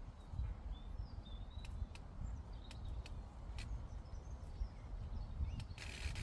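Outdoor meadow ambience: small birds chirping faintly in short calls over a low wind rumble on the microphone. Scattered sharp clicks are heard, and a brief hissing rustle comes near the end.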